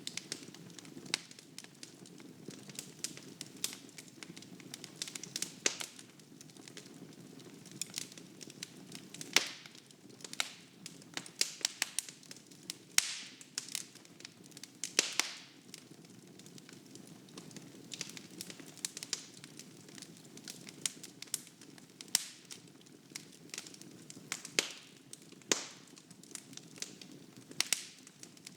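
Wood fire burning in a fireplace: a steady low rush of flame with frequent sharp, irregular crackles and pops of the burning logs.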